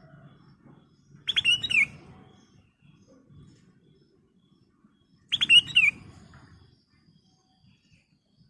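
Black-crested bulbul (kutilang emas) singing: two short phrases of quick whistled notes, about four seconds apart.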